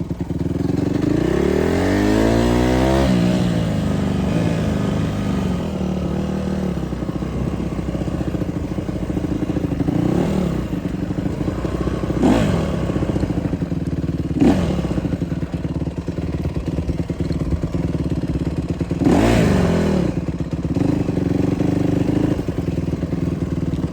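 Dirt bike engine running while being ridden, revving up sharply about two seconds in, then several quick rev blips through the rest of the ride.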